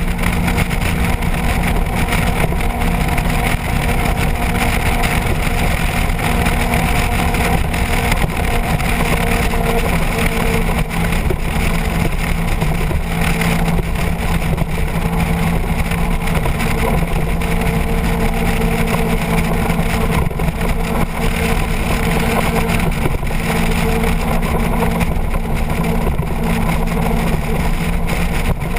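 Motorcycle engine running at a steady cruising speed, with wind and road noise rushing over it.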